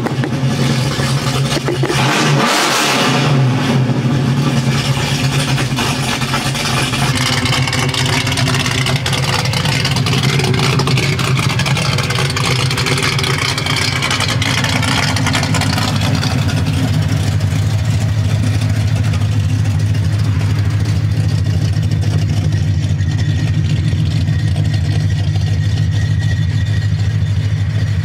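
Old-school cast-iron V8 engine of a classic American muscle car running with its exhaust. It is louder and rougher over the first few seconds, then settles into a steady, even note.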